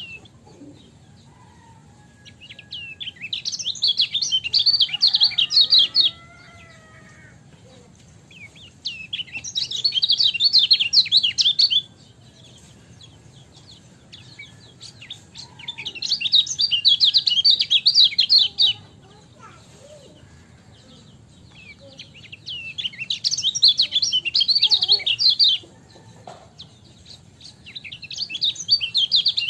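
Kecial kuning white-eye singing: bursts of fast, high twittering chirps about three seconds long, repeated roughly every six seconds, with faint single calls in between.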